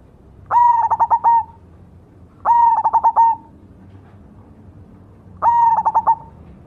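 Zebra dove (perkutut) of the black cemani variety cooing its song: three phrases about two and a half seconds apart, each a held note that breaks into a run of quick stuttered notes.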